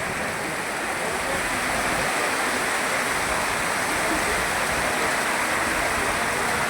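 Heavy rain pouring down, a dense steady hiss of water with no let-up.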